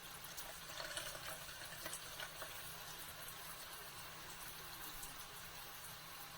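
Water running in a steady, hissing stream, with a few faint splashy ticks.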